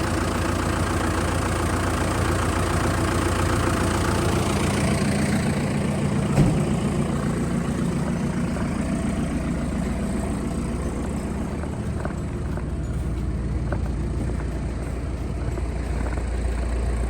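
A heavy-equipment engine idling steadily while warming up in the cold, with a single knock about six seconds in.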